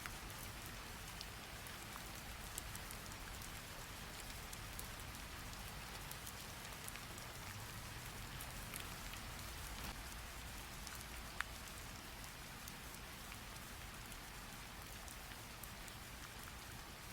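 A rain sound effect: steady rain hiss with scattered sharp drop ticks, one louder tick about eleven seconds in.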